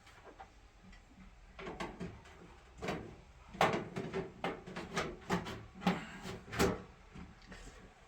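A run of about a dozen sharp, irregular knocks and clatters, like hard objects being handled or struck, lasting about five seconds.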